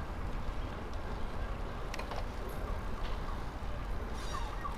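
Steady low rumble of wind on the microphone and road noise from a bicycle being ridden, with a couple of faint ticks about two seconds in.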